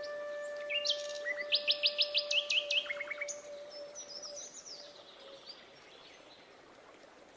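Songbird chirping: a quick run of about seven sharp, high chirps and a short lower trill starting about a second in, over a long held flute note. Everything fades to faint toward the end.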